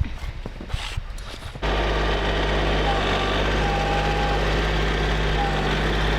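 A few irregular knocks and crunches, then about one and a half seconds in a motor engine suddenly comes in, running steadily at an even pitch.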